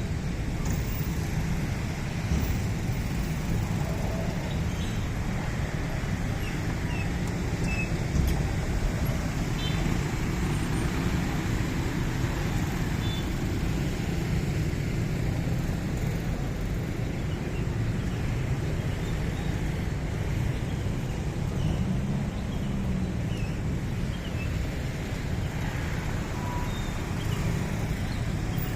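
Steady road traffic noise from a city street: an even low rumble of passing vehicles, a little louder for a moment about eight seconds in.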